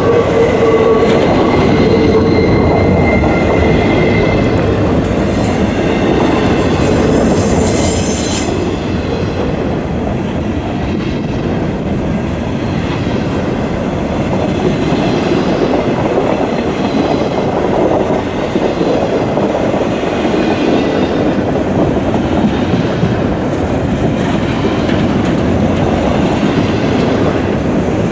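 Freight train rolling past, its cars clattering steadily over the rails, with a thin steady wheel squeal in the first few seconds.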